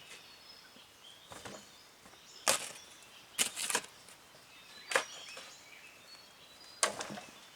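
About six sharp, irregular blows of a hand tool, spaced roughly a second or two apart, with two coming close together in the middle. Faint bird chirps sound between them.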